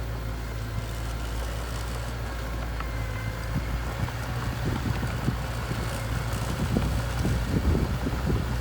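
Small bulldozer's diesel engine running at a steady low drone, with irregular low rumbles of wind buffeting the microphone that grow more frequent in the second half.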